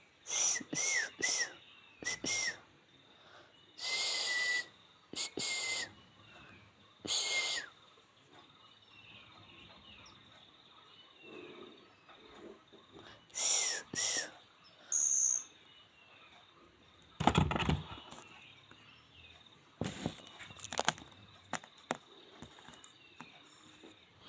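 A baby bird calling while it is fed: bouts of short harsh calls, several ending in a sharp note that bends downward, with faint chirps in the quieter gaps between bouts. A loud rustle or knock comes about two-thirds of the way through.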